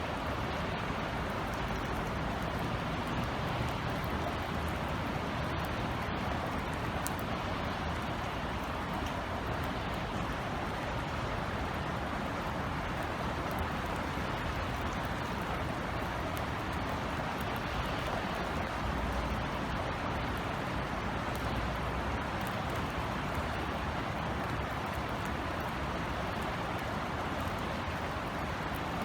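Steady drizzle falling, an even hiss with faint scattered drop ticks, over a low, constant rumble of city background noise.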